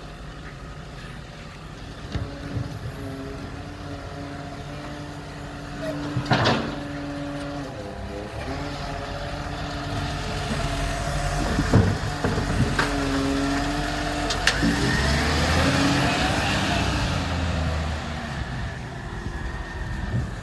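Garbage truck running with a steady engine whine, broken by several sharp knocks. The engine rises in pitch and grows louder past the middle, then eases off.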